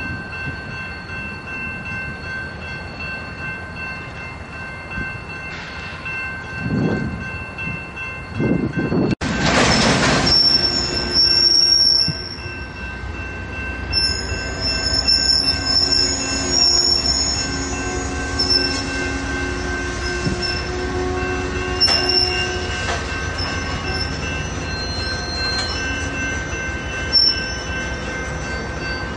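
Slow-moving BNSF flatcars loaded with long welded rail rolling past, with high-pitched wheel squeal and screeching that come and go. A loud rushing burst about nine seconds in lasts some three seconds.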